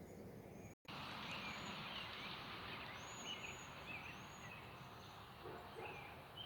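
Birds calling in the trees: repeated short chirps and higher arched whistled notes from several birds over a steady outdoor background hiss. The sound cuts out completely for a moment just under a second in.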